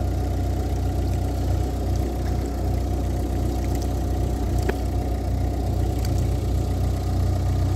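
Car engine idling steadily: a low, even hum that does not change, with a couple of faint ticks about halfway through.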